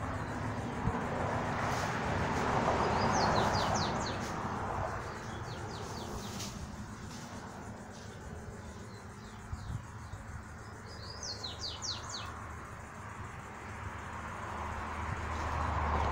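A songbird chirps in quick runs of short, high notes, three or four times, over a steady outdoor noise haze that swells louder near the start and again at the end.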